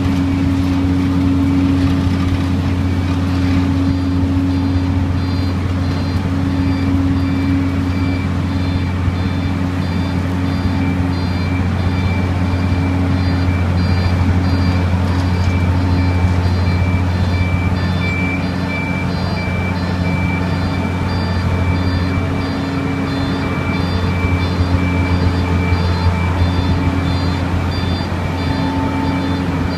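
Heavy diesel engine of a Jet-Tetlaw 1-metre road planer running steadily under load, planing off a yard surface. A reversing alarm beeps repeatedly over it from about four seconds in.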